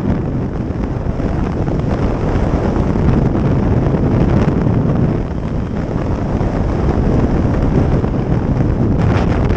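Wind buffeting the microphone on a moving motorcycle, a loud, steady rush mixed with the bike's road and engine noise.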